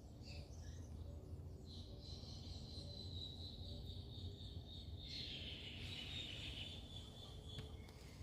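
Faint outdoor ambience: a steady low rumble, with a high, steady insect trill that starts about two seconds in and stops near the end.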